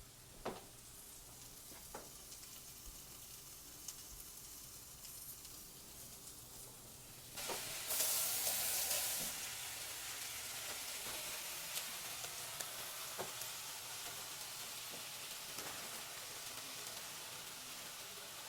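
Food frying in a hot pan: a soft sizzle with a few light clicks, then about seven seconds in a sudden loud flare of sizzling, as food meets the hot surface. It settles into a steady, louder sizzle.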